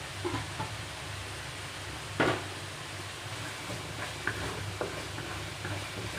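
Chili paste frying in oil in a pan, sizzling while it is stirred, with a spatula scraping and knocking against the pan, one sharper knock about two seconds in.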